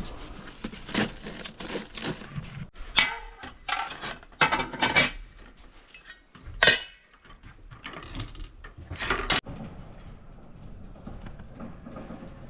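Clinks and knocks of hard objects being handled, an irregular run of sharp strikes, a few with a short ring, that stop about three quarters of the way through.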